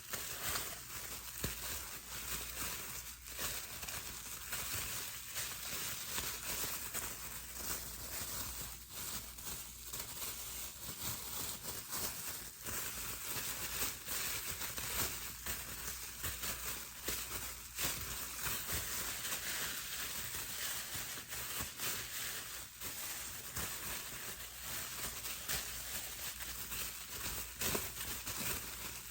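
Bubble wrap being handled, crinkling and popping in a dense, continuous run of small crackles and snaps.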